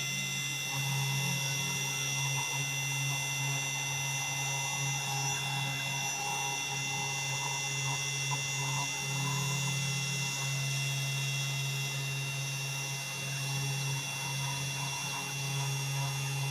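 CNC 3018 desktop router at work machining bakelite: the spindle motor runs with a steady high whine while a lower hum swells and dips every second or two.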